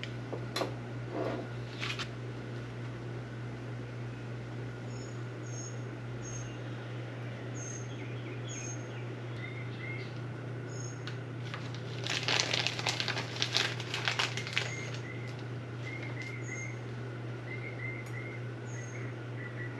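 Small parts of a manual transmission being handled and fitted, a flurry of light clicks and rattles about twelve seconds in lasting some three seconds. Small birds chirp in short repeated calls throughout, over a steady low hum.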